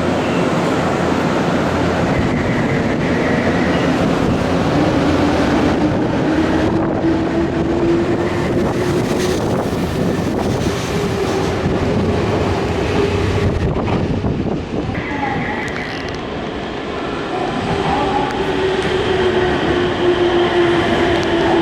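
Nankai electric train moving along the platform at close range, rumbling steadily. Its motors whine with a pitch that rises over several seconds and comes back near the end.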